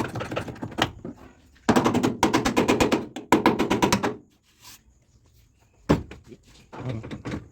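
Rapid hammering on a car's sheet-metal body panel, a dense run of fast blows lasting about two seconds, then a single sharp knock and a few more blows near the end.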